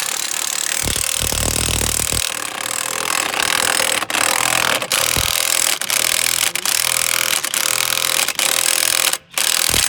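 Impact wrench running the wheel bolts onto a tractor's rear hub, driven in long bursts with short pauses between trigger pulls.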